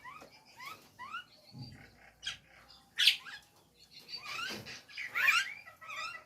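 Jalak nias myna calling: a run of short rising chirps and whistles, broken by a few louder harsh squawks about halfway through and near the end.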